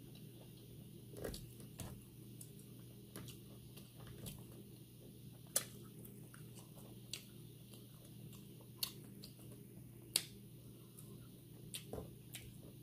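Faint chewing and mouth sounds of a person eating, with scattered sharp clicks and smacks every second or two, over a steady low hum.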